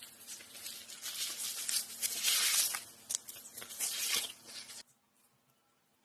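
Rough rustling and tearing noise, loudest in the middle, that stops abruptly about five seconds in.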